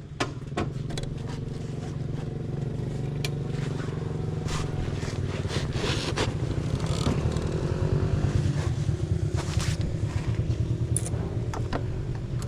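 A motor running steadily, growing slowly louder toward the middle, with scattered clicks and knocks.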